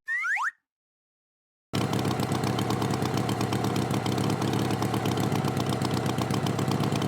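A short falling cartoon whistle effect, then, after a pause, a steady engine running with a fast chugging pulse, the sound effect of the cartoon tractor's motor.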